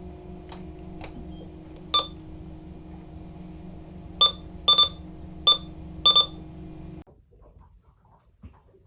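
Short electronic beeps, one about two seconds in and then a quick run of five more, over a steady low hum that cuts off abruptly near the end.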